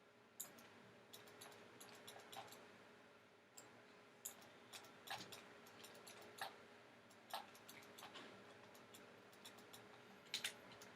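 Faint, scattered computer mouse clicks, about one every second or so, over a near-silent room.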